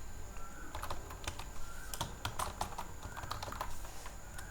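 Typing on a computer keyboard: irregular key clicks at an uneven pace. A low steady hum sits underneath.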